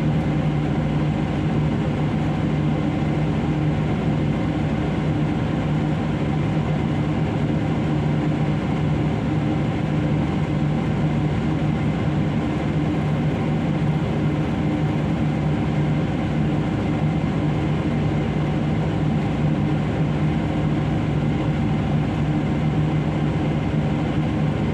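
Heavy diesel engine of mining machinery running steadily at one speed: an even, unchanging low drone.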